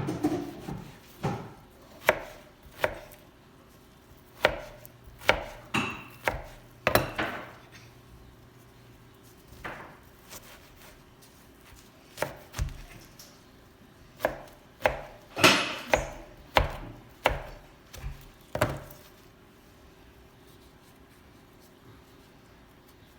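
Knife chopping citron into small pieces on a cutting board, in uneven runs of sharp strokes that stop near the end.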